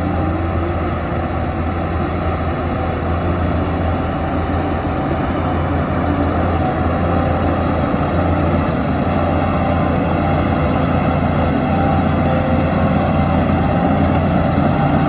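Heavy diesel engine of earth-moving machinery running steadily under load, a deep low drone that grows a little louder through the second half.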